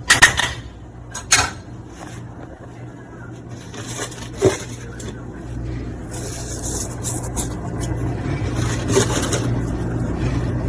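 Onion-chilli masala frying in ghee in a pan: a few knocks of the spoon against the pan near the start, then a steady sizzle that grows louder about halfway through, over a steady low hum.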